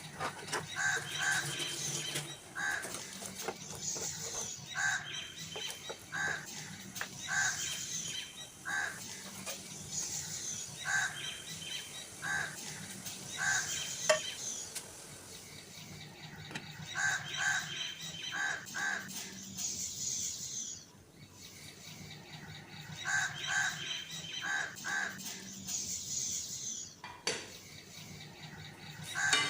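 Birds calling repeatedly outdoors, short calls coming in clusters of two or three, with a single sharp click about halfway through.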